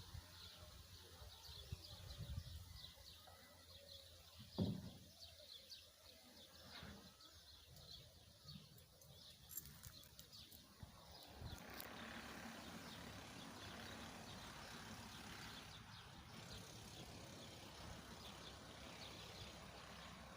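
Faint outdoor ambience with a quick, even series of high chirps from birds or insects. There is a brief low bump about four and a half seconds in, and from about halfway through a steady rushing hiss, like wind on the microphone.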